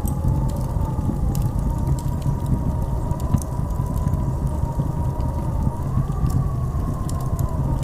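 Blizzard wind howling, with a deep steady rumble and a whistling tone that wavers slowly up and down. Scattered faint ticks run through it.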